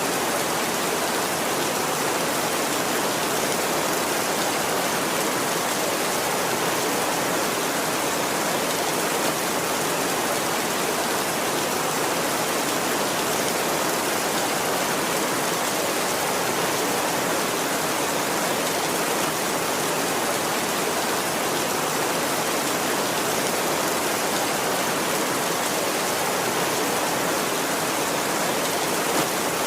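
Heavy rain pouring steadily on a tin roof, an even hiss with no thunder.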